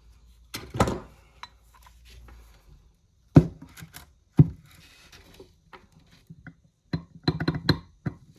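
Metal clicks and knocks from the restored hand-operated bullet reloading tool being handled: two loud knocks a second apart in the middle, then a quick run of clicks near the end.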